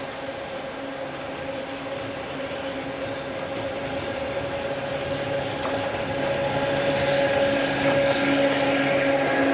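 Approaching locomotive-hauled passenger train, a steady hum growing louder, with a rising hiss of wheels on rail toward the end.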